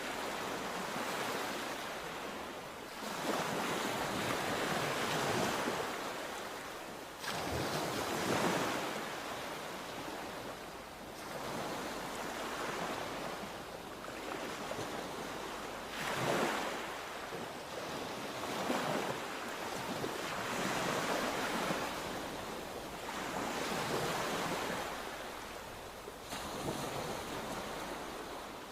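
Sea waves breaking and washing on the shore, each one surging up and falling back every few seconds, with a couple of sharper crashes.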